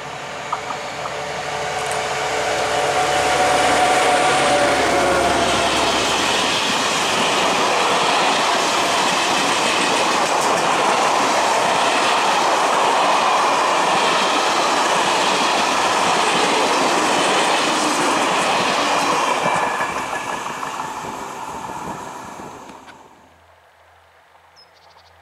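A freight train passing close by: the diesel locomotive's engine note as it approaches, then the wheels of a long rake of flat wagons clattering and rumbling past on the rails. The sound fades away near the end.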